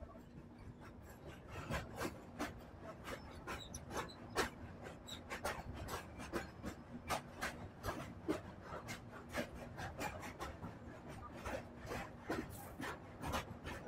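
Passenger train running across a steel truss bridge, heard from an open coach doorway: a low rumble with irregular clicks and knocks from the wheels on the track, several a second.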